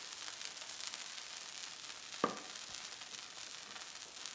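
Arepas de queso sizzling on a hot griddle, a steady fine crackle, with one sharp click a little past halfway.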